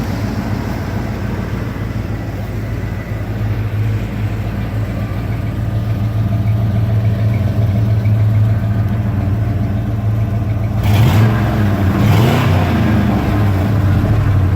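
1990 Ford Bronco's V8 idling steadily through its exhaust, then given a couple of quick revs near the end, the pitch rising and falling.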